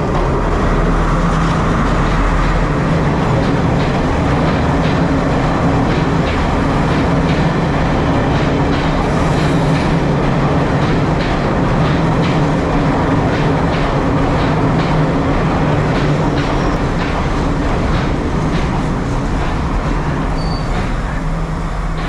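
Diesel train running close by: a steady engine drone with a rhythmic clicking of wheels over rail joints through the middle.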